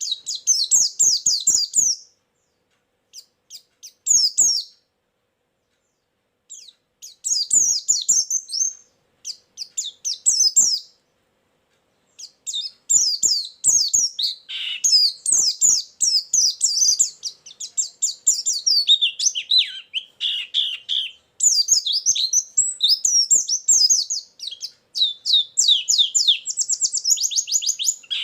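White-eye (pleci) singing a fast, high, chattering song in bursts of quick chirps, broken by short pauses in the first half and running almost without a break later. A very fast trill comes near the end. This is a lure song, with phrases of other birds' calls worked in.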